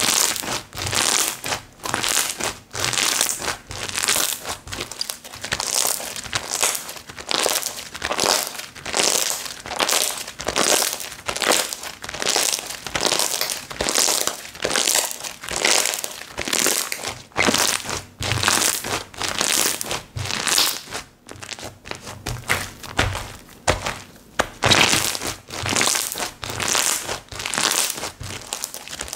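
Slime being squeezed and pressed by hand: a crackly, crinkling squish repeated over and over in a steady rhythm, about one or two presses a second.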